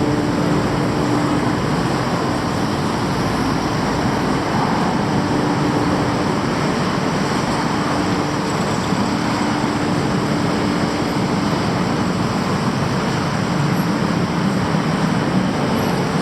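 Steady street traffic noise from passing road vehicles, with a low engine hum that fades in and out several times.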